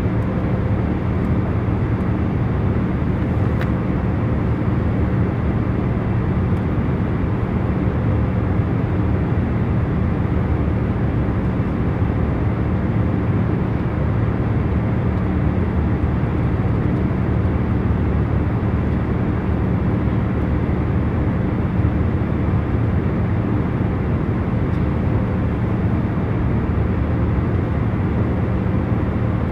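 Airliner cabin noise in cruising flight: a steady low rush with a few faint constant hum tones, unchanging throughout.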